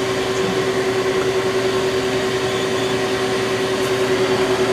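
Steady machine hum of a powered-up CNC Swiss-type lathe, with one constant mid-pitched tone over an even whir.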